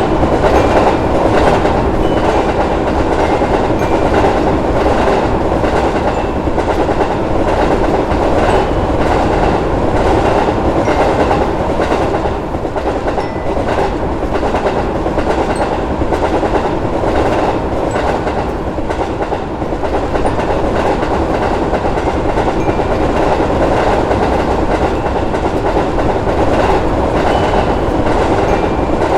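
Train passing, with a steady rumbling rush and the clickety-clack of wheels over rail joints.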